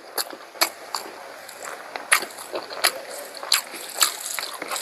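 Close-up mouth sounds of eating pork curry: wet chewing with sharp lip smacks and clicks at irregular intervals, about one every half second.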